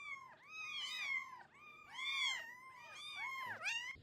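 Cat mewing over and over in short, high-pitched calls, each rising then falling, about three to four a second. The calls stop abruptly near the end.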